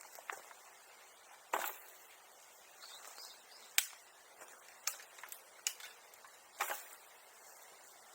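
Irregular sharp snaps and cracks, about seven over several seconds, with faint rustling between them: dry brush, twigs or bamboo being broken and handled.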